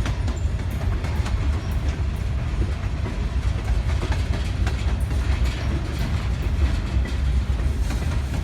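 Train rolling along the rails: a steady low rumble with scattered wheel clicks.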